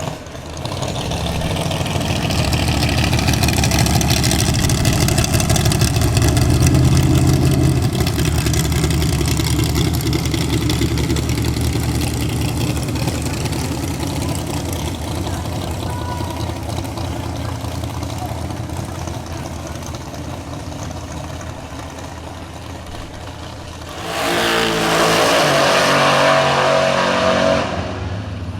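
Drag car engines running at low revs, swelling over the first several seconds and slowly fading. Near the end an engine revs up louder for about three seconds, then drops away.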